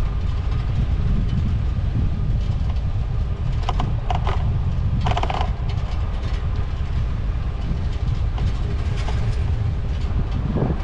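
Steady low rumble of wind and road noise on the microphone while riding a bicycle, with a couple of short higher sounds about four and five seconds in.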